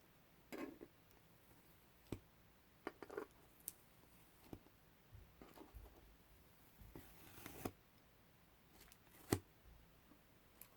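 Masking tape being peeled off a surface in short sticky pulls, with crackles and small taps. A longer crackling peel comes about seven seconds in, and a single sharp tap follows.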